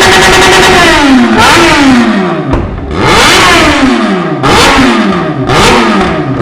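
Vehicle engine revved hard: held at high revs for about a second, then let drop and blipped again and again, the pitch falling after each blip.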